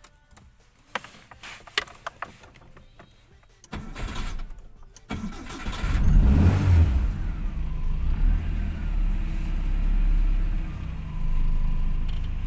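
A few light clicks, then the starter cranks for about a second and a half. The Nissan CGA3 1.3-litre twin-cam 16-valve fuel-injected four-cylinder catches about five seconds in, flares up briefly, and settles into a steady idle.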